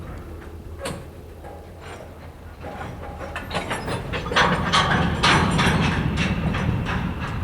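Norfolk Southern train rolling past, with a steady low rumble and a run of sharp clicks as the wheels cross rail joints. The clicking builds and grows louder about halfway through.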